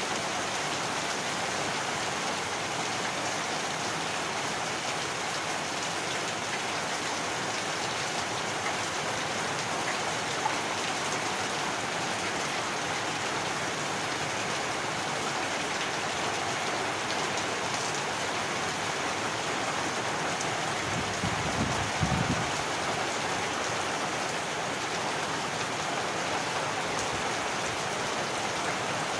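Steady heavy rainfall, an even wash of drops falling on surfaces. About three quarters of the way through, a brief low rumble rises and fades within a second or two.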